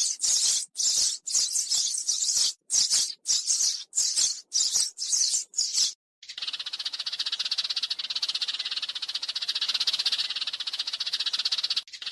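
Sparrows chirping in quick bright bursts, about two a second. About halfway through there is a brief break, then a continuous rapid chattering.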